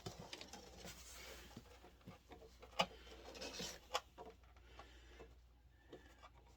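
Faint rubbing and scattered small clicks of a hose being handled and screwed onto the drain valve at the bottom of an electric water heater tank, with one sharper click about three seconds in.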